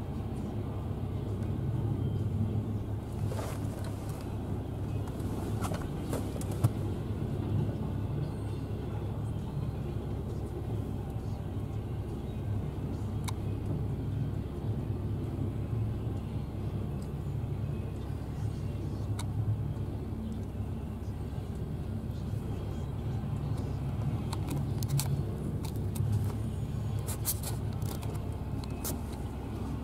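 Steady low rumble of a double-stack container freight train rolling through a grade crossing, heard muffled from inside a stopped car, with a few scattered clicks.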